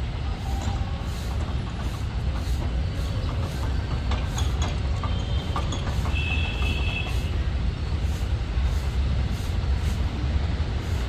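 Steady rumble of road traffic, with a brief high thin tone about six seconds in.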